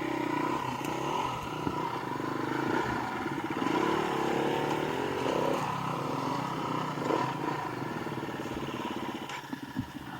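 Dirt bike engine running, revved up and down so its pitch rises and falls, with a few knocks near the end.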